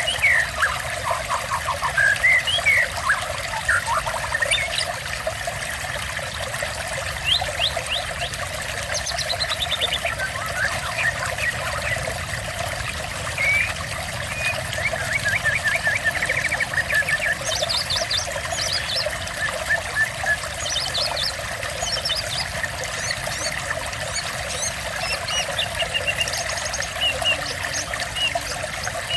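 Water trickling and pouring steadily, with several small birds chirping and giving fast trills of short repeated notes over it throughout.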